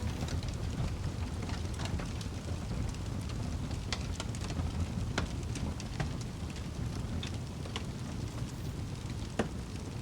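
Fireplace crackling: a steady low rumble of burning with scattered sharp pops and crackles, one louder pop near the end.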